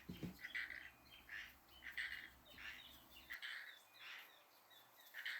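Backyard birds chirping faintly, a steady series of short chirps a little under two a second.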